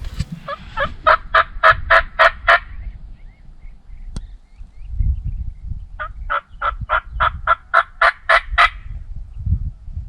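Two runs of turkey yelping, evenly spaced notes at about four to five a second. Each run lasts two to three seconds, and the second begins about six seconds in. A single sharp click falls between them.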